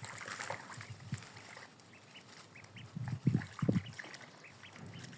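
Ducks calling with a string of short quacks, and two louder, lower sounds in quick succession a little over three seconds in.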